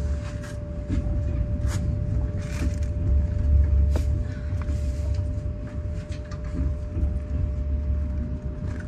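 Passenger train running, heard from inside the carriage: a steady low rumble from the wheels with scattered clicks and knocks from the track, and a constant hum.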